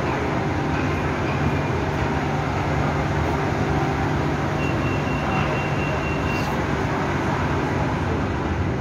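Steady hum inside a BTS Skytrain car standing at a station platform, with a thin high tone sounding for about two seconds around the middle.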